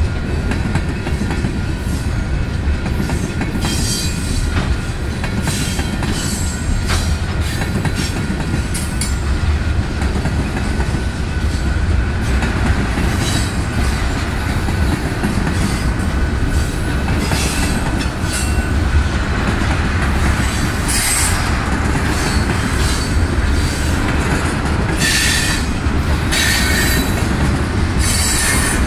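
Freight train tank cars rolling past at close range: a steady rumble and clatter of steel wheels over the rails, with short high-pitched wheel squeals now and then, the loudest about two-thirds of the way through and near the end.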